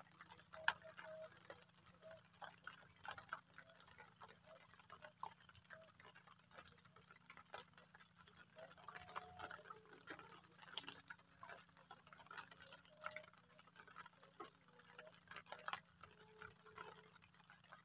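Faint light rain: scattered, irregular drip ticks from raindrops landing close by.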